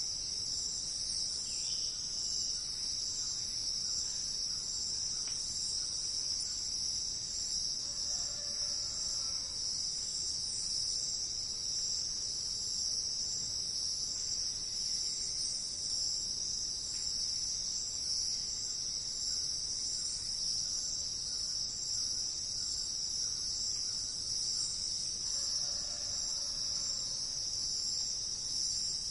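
A steady, high-pitched insect chorus drones without a break. Twice, about a third of the way in and again near the end, a faint lower call sounds briefly under it.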